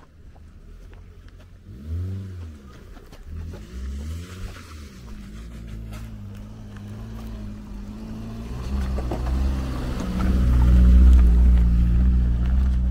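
Car engine running: it revs up and falls back twice, about two and four seconds in, then settles into a steady low hum that grows louder over the last few seconds.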